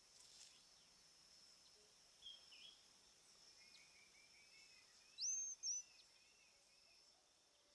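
Buff-throated purpletuft singing its faint, high-pitched two-note song: a quick rising note and a short second note about five seconds in, with a few fainter high chirps before it. A steady high insect hum runs underneath.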